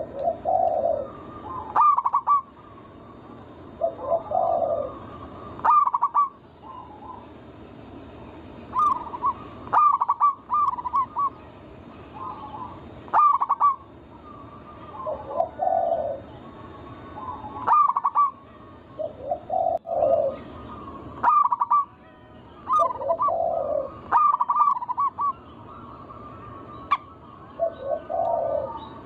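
Zebra dove (perkutut) song: phrases of quick, clipped cooing notes, each phrase coming around every three to four seconds.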